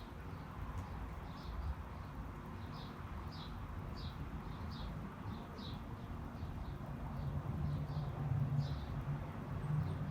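A small songbird chirps repeatedly in short, high notes, about two a second, over a steady low city rumble that swells in the second half.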